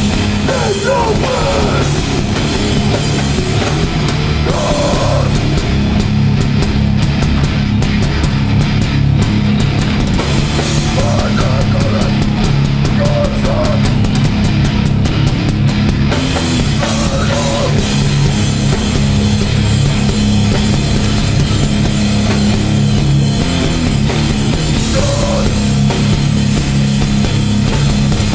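Live hardcore band playing loud and heavy: guitars and bass holding low notes over a drum kit.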